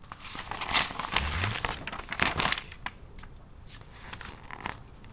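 Packaging crinkling and rustling for about two and a half seconds as parts are handled, followed by a few light clicks and taps.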